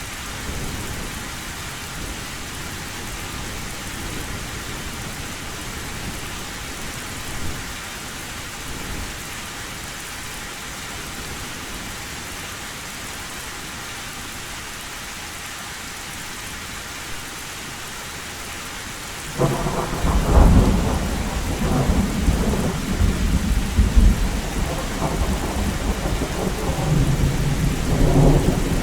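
Heavy rain falling on a tin roof, a steady hiss. About two-thirds of the way in, thunder cuts in suddenly and rumbles on in uneven swells, louder than the rain.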